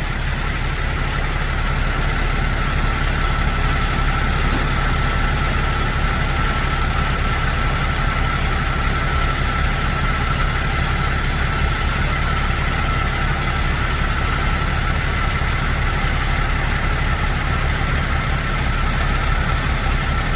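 A heavy vehicle's engine idling steadily, with a steady high whine held above the rumble.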